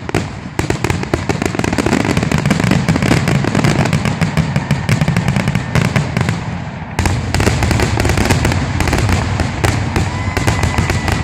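Fireworks finale: a rapid barrage of aerial shells bursting, many overlapping bangs and crackles with hardly a gap, and a brief lull about seven seconds in. A steady whistle-like tone joins near the end.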